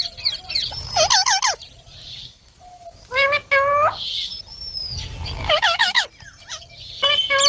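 Indian ringneck parakeets calling in four bouts of rapid, rising-and-falling screeching calls, a second or two apart.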